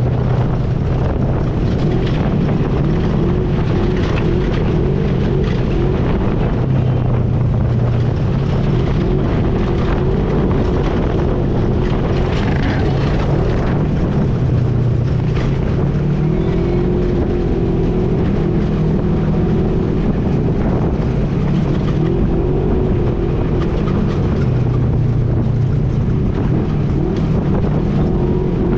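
ATV engine running under way, its pitch stepping up and down every few seconds with the throttle.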